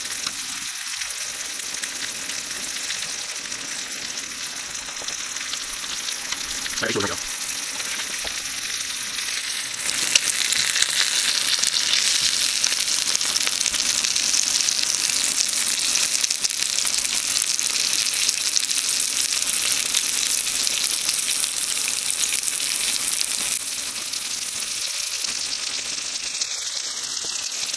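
Bacon-wrapped sausages and ramen sizzling in a hot pan: a steady frying hiss that gets louder about ten seconds in and eases off a little near the end.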